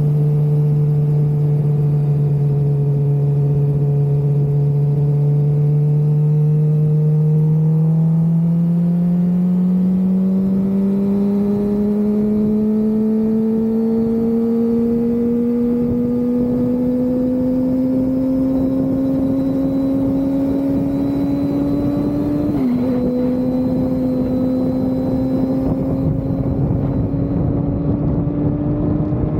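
Suzuki GSX-R600 inline-four engine under way, its pitch steady at first and then climbing slowly as the bike gathers speed. About 23 s in, a quick upshift drops the revs, and they start climbing again. Rushing wind noise grows with speed underneath.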